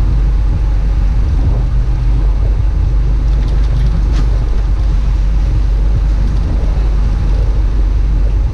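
Steady low drone of a fishing boat's engine under way, with the rush of water and wind over it and a faint click about four seconds in.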